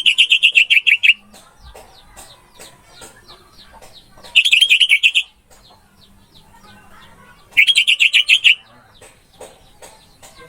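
Orange-headed thrush (anis merah) singing: three loud, fast trilled phrases about a second long, roughly every three and a half seconds, with fainter chirps in between.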